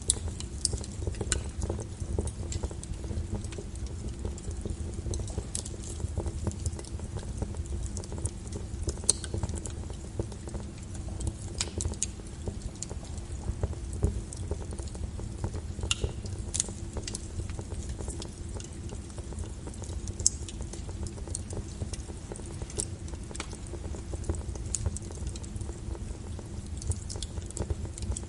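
Burning wood fire crackling: irregular sharp pops and snaps over a steady low rumble.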